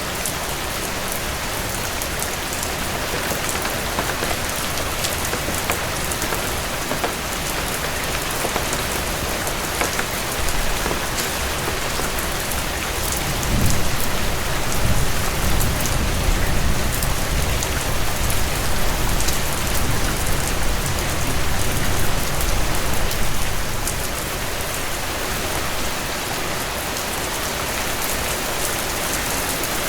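Heavy rain falling steadily, with scattered sharp ticks. About halfway through a low rumble swells in and fades again after about ten seconds.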